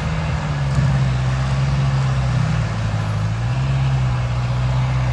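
97-horsepower Kubota loader with a drum mulcher working, its diesel engine running steadily under a noisy hiss of the mulcher chewing brush. The engine note dips about halfway through and comes back up a second later.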